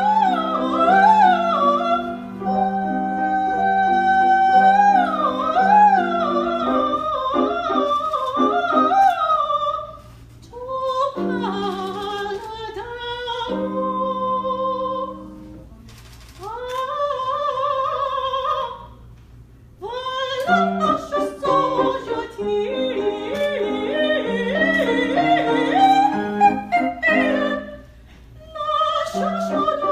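Classical, opera-style solo singing with strong vibrato over sustained instrumental accompaniment, in phrases separated by brief breaths.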